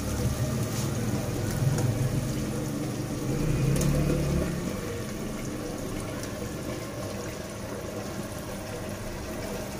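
Cubed raw potatoes tumbling from a plastic basket into masala frying in oil in a clay pot, over a steady sizzle. It is loudest in the first half, while the potatoes go in.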